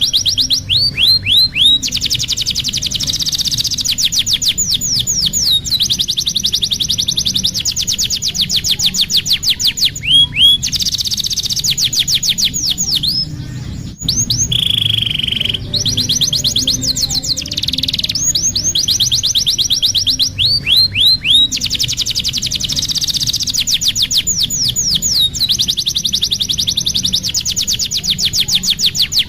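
Domestic canary singing: long, very rapid trills and rolling phrases, broken by runs of quick down-sweeping notes, with a short pause about halfway through. A low steady hum lies underneath.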